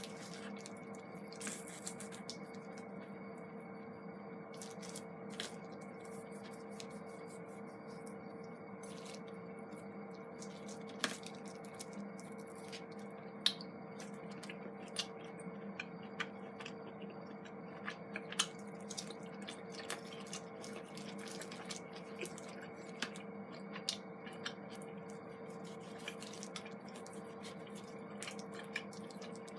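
Wood campfire crackling: irregular sharp pops and snaps, a few of them louder, over a faint steady hum.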